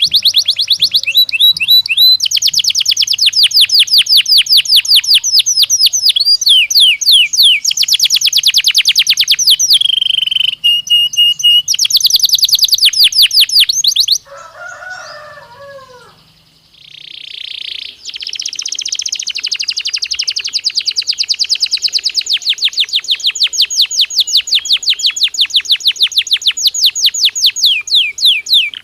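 Belgian canary singing in long runs of rapid repeated trill notes, the phrases changing every few seconds. About halfway through the song stops for a few seconds, and a brief lower, falling sound comes in that gap. Then one long, fast trill follows.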